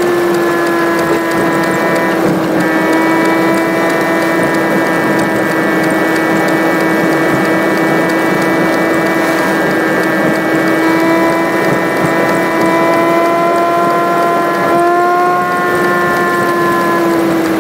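Car engine and road noise from a drive, sped up sixfold into a steady high-pitched drone with a strong hum and overtones, its pitch sagging slightly now and then.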